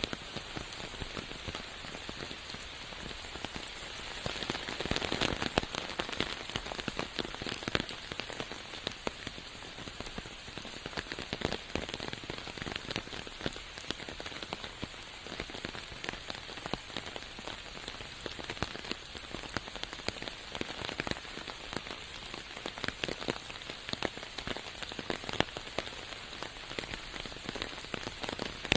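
Steady rain falling in a forest, with many separate drop hits close by; a little heavier for a couple of seconds about four seconds in.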